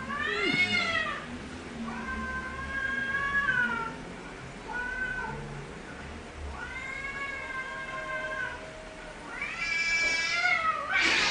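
Cat yowling: about five long, drawn-out wails that slide up and down in pitch. This is the threatening caterwaul of a cat squared off against another cat.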